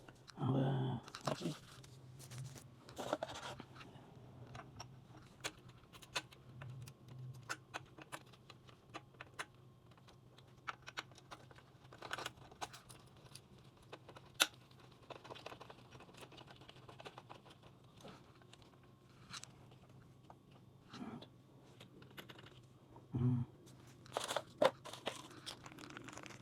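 Scattered clicks, knocks and rustling of hands handling motorcycle parts and tools, over a faint steady hum.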